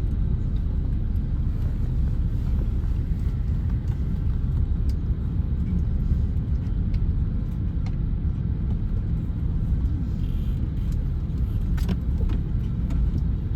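Steady low rumble inside the cabin of an Airbus A321neo, with a few faint clicks.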